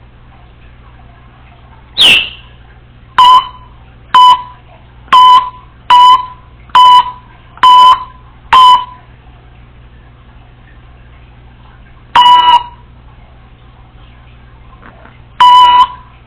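Congo African grey parrot imitating an electronic beeper: a short falling whistle, then a run of seven loud, even beeps about one a second, and two more a few seconds later.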